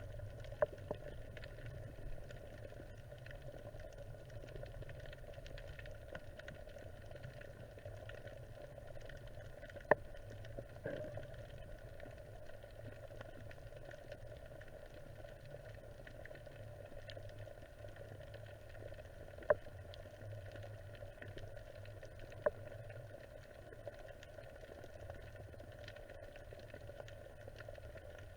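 Muffled underwater ambience picked up by a camera in a waterproof housing: a steady low rush and faint crackle, broken by three sharp clicks at about ten, nineteen and twenty-two seconds in.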